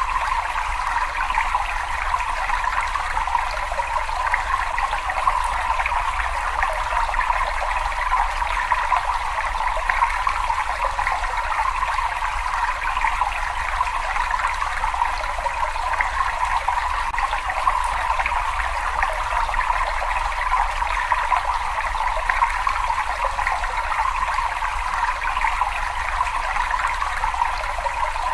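Water flowing and trickling in a cave, a steady, even rush with a faint low rumble underneath.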